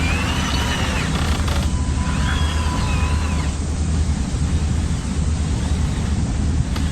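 Radio-controlled construction models running: a steady low engine-like hum with the whine of small electric motors and gears rising and falling a few times.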